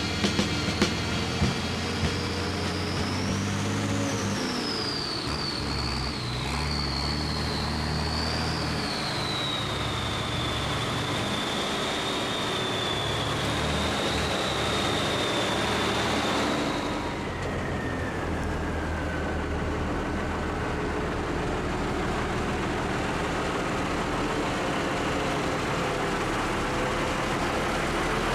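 M52A2 6x6 military truck's engine running, with a high whine over it that wavers, falls and stops about seventeen seconds in; the engine then settles to a steady idle. A few sharp knocks come in the first two seconds.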